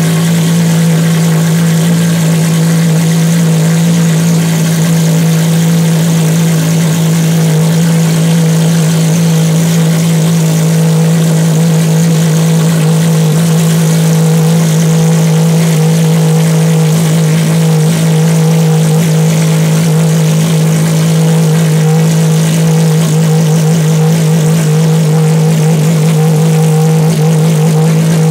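Ferrari FXX's V12 engine running loud and steady at a fast idle, holding one pitch without revving.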